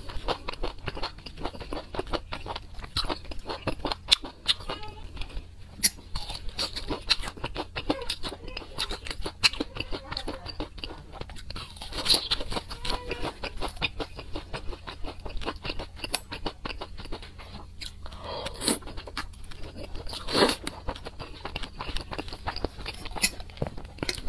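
A person chewing food close to the microphone: a steady run of short mouth clicks and smacks, with a few louder bursts near the end.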